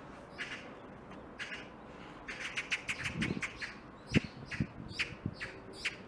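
Small birds chirping: short high chirps, with a quick run of rapid chirps about halfway in. A few soft low thumps come through in between, the loudest just after four seconds in.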